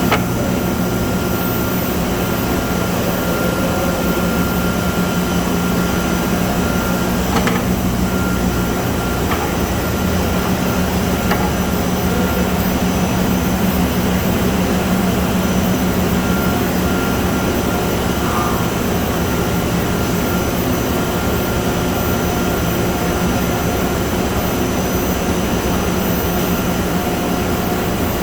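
Extruder line with an automatic turret rewinder running: a loud, steady mechanical drone with a low hum. A few sharp clicks come about seven and a half, nine and eleven seconds in.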